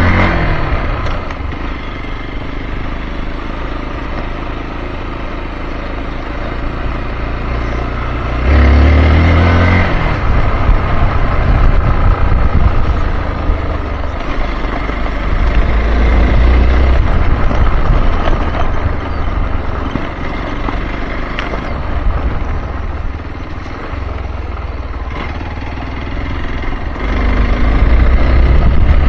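Hero XPulse 200 Pro's single-cylinder engine running under way, with revs rising and falling. The throttle opens hard about eight seconds in and again near the end.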